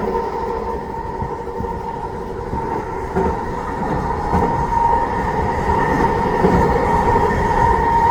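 SkyTrain running on its guideway: a steady whine held at a few pitches over a constant rumble of wheels on rail.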